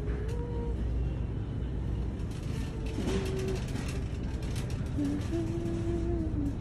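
Steady low rumble of store background noise, with a run of light rattling clicks in the middle and a few faint held tones that step in pitch.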